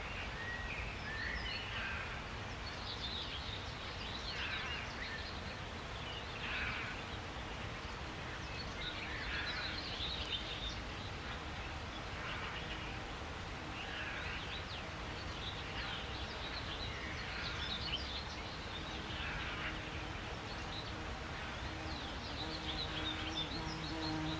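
Wild birds chirping and singing in short repeated phrases every second or two, over a steady low outdoor rumble. Near the end a low steady hum comes in underneath.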